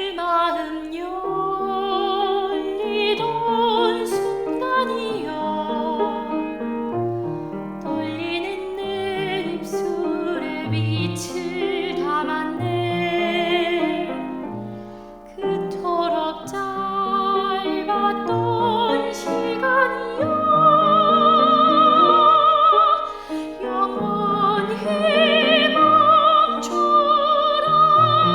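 Classical, opera-style singing with strong vibrato over piano accompaniment, the voice holding long high notes and growing louder in the last third.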